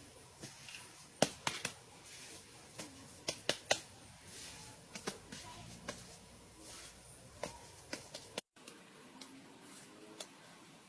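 Scattered sharp clicks and taps at irregular intervals over faint background noise, with a brief gap of silence about eight seconds in.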